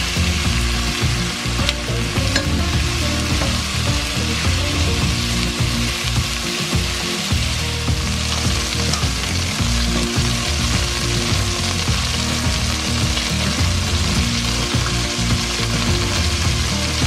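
Chicken pieces sizzling as they fry in a stainless steel pot, with a spoon stirring and occasionally clicking against the pan.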